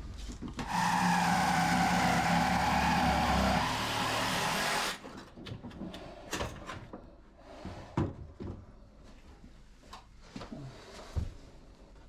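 A power tool runs steadily for about four seconds and cuts off suddenly, as the fiberglass over a glassed-in seacock base plate is worked away. Scattered knocks and scrapes of hand work follow.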